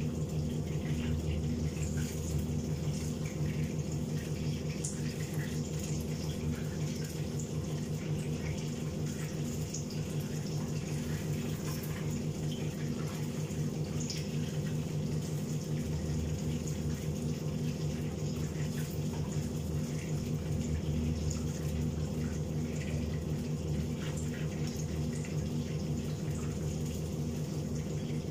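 Chicken pieces frying in hot oil in a pan, a steady sizzle with small crackles, over the steady hum of a kitchen range-hood fan.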